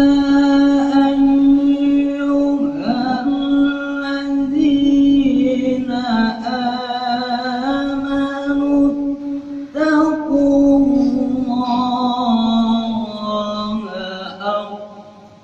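A solo male voice reciting the Quran in melodic tilawah style. He holds long high notes with ornamented turns, breaking for breath a few times and fading near the end.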